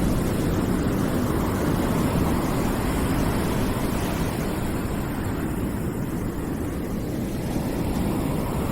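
Steady rushing noise, heaviest in the low range, with no tones, slowly swelling and easing over a few seconds.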